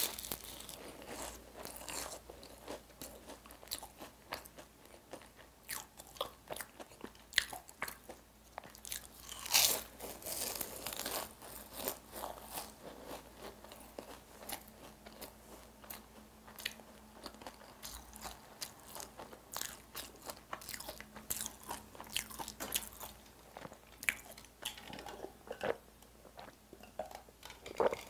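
Close-miked eating sounds: a bite into a pastry tart's crust, then chewing with many small crisp crunches. There is a louder crunch right at the start and another about ten seconds in.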